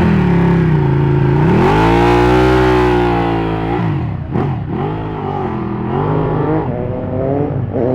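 Superbike engine revving hard, its pitch falling, then rising and holding high for a couple of seconds before dropping sharply, then wavering lower and rising again near the end. A short sharp crack, typical of an exhaust pop, comes about four seconds in.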